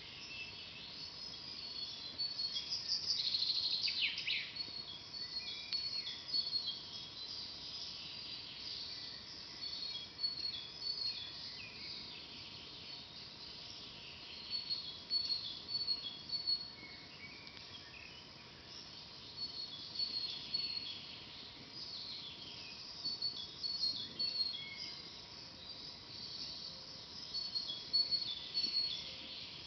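Forest birds singing: short high chirps and quick trilled series repeating throughout, the loudest burst about three seconds in, over a soft steady background hiss.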